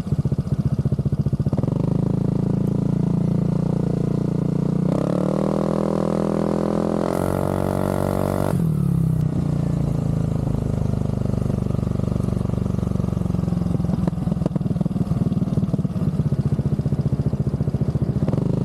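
Aprilia SR GT scooter's single-cylinder engine running through a Zard aftermarket exhaust. It idles with a pulsing beat, then the revs climb from about five seconds in and are held high for a couple of seconds before dropping back to idle near the middle.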